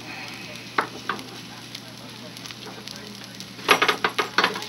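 Potato cakes sizzling as they fry in a stainless steel pan on a hot plate. Two sharp knocks come about a second in, and a burst of metal clatter near the end as a hand works the pan on the burner.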